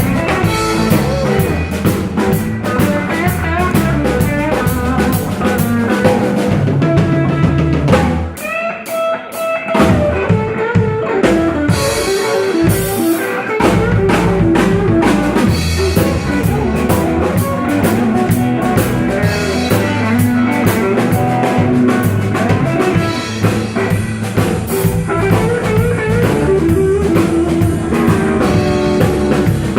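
Live blues band playing with guitar, drum kit and bass. About eight seconds in the bass and drums drop out for a moment as a break, then the full band comes back in.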